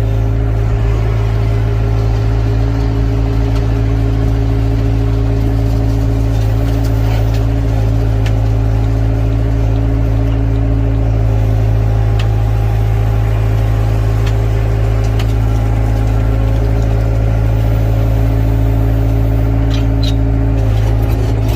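Excavator's diesel engine running steadily under work, a constant low hum with no change in pitch.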